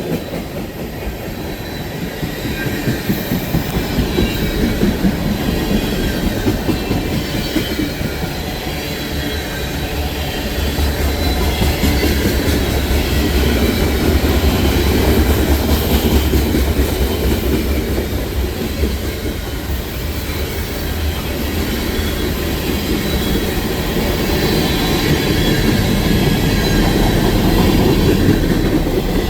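A train rolling past on the rails for the whole half minute, with a steady rumble of cars and wheels and a faint high squeal from the wheels. The rumble is heaviest in the middle.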